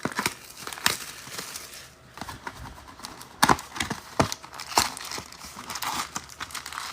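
Plastic wrapping crinkling and tearing as a sealed box of trading card packs is opened, with several sharp clicks and rustles of the cardboard and packs being handled.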